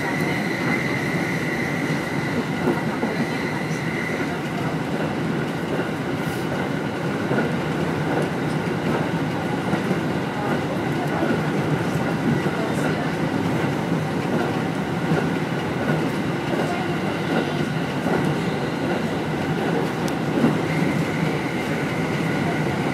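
Electric commuter train running along the track, heard from inside the front car: a steady rumble of wheels on rail with a few clicks. A high steady whine sits over the rumble for the first few seconds and comes back near the end.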